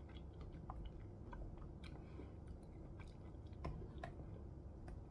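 Faint chewing of soft pineapple and mango pieces, with scattered small wet mouth clicks.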